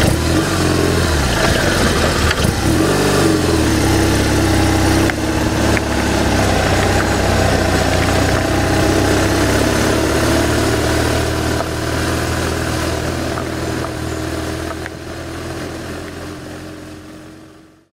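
Motorcycle engine running on the ride, revs rising and falling over the first few seconds and then holding steady, under the rush of wind on the onboard microphone. The sound fades out over the last few seconds.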